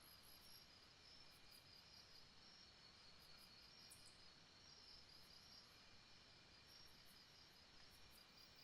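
Faint jungle ambience: insects trilling steadily in a high, finely pulsing chorus, with short, very high chirps scattered through it.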